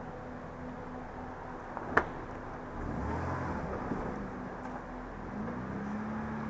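Off-road vehicle engine running, pulling harder from about three seconds in, with its pitch rising and then falling back near the end. A single sharp knock about two seconds in is the loudest sound.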